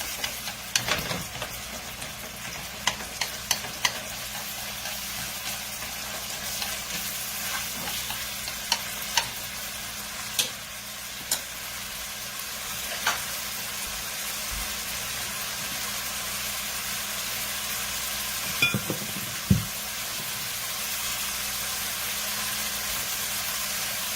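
Ground pork frying in lard in a pan, with a steady sizzle. A metal utensil clicks against the pan now and then as the meat is stirred.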